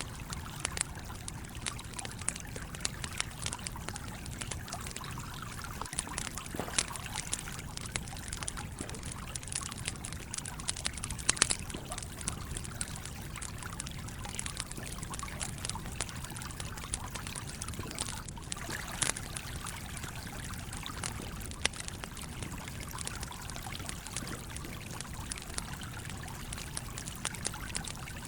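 Stream water flowing steadily, with a campfire crackling and popping over it in frequent sharp snaps. A loud cluster of pops comes just past a third of the way through.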